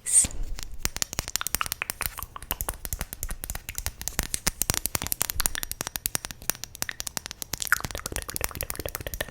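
Mouth sounds close to the microphone: a dense, continuous run of quick clicks and pops, many a second.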